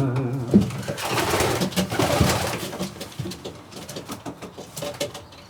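Domestic pigeons cooing in a loft, with scattered light taps and scuffles; the calls are loudest in the first couple of seconds and then fade.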